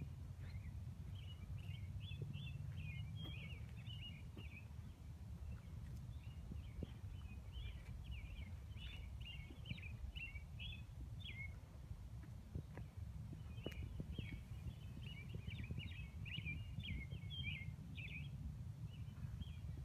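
A songbird singing in phrases of rapid high chirps, each lasting a few seconds with short pauses between, over a steady low outdoor rumble.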